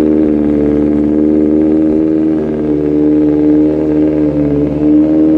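Kawasaki ZX-4RR's 399 cc inline-four, fitted with an Austin Racing exhaust, idling steadily after a cold start, with only slight wavers in pitch.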